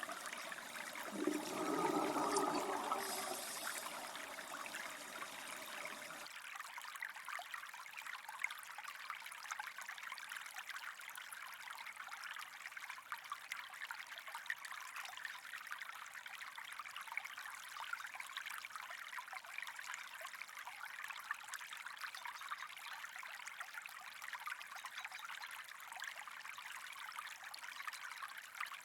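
Running water, a steady trickling flow. There is a louder stretch about two seconds in, and about six seconds in the deeper part of the sound drops away, leaving a thinner, hissier trickle.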